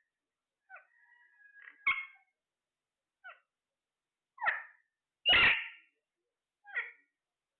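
Pet parrot calling in a string of short, separate calls, with a thin steady whistle about a second in and the longest, loudest call about five seconds in.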